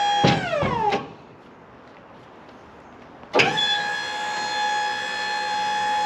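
A motor's steady high whine winds down in pitch and stops about a second in, then spins back up quickly about three and a half seconds in and runs on steadily.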